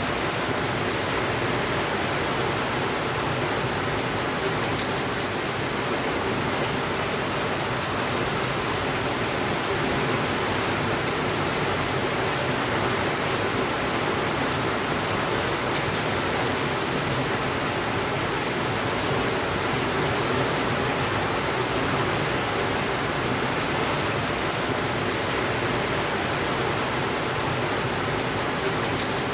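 Steady rainfall: an even hiss that holds the same level throughout, with a few faint ticks here and there.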